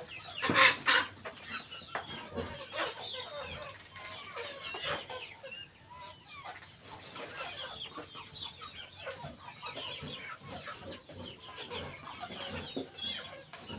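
Chickens clucking, with many short, high calls overlapping throughout and a loud, sharp outburst about half a second in.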